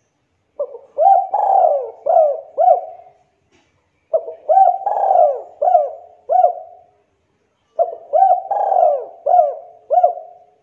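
Spotted dove (tekukur) cooing: the same phrase three times, each a run of about five short coos lasting a couple of seconds, with the second coo the longest.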